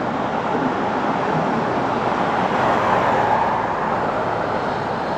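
Road traffic noise: a steady rush of passing vehicles, swelling as one goes by about three seconds in.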